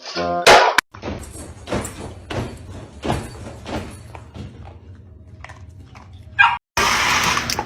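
A pet animal making a series of short, sharp sounds, about two every second and fading, after a loud sudden sound about half a second in.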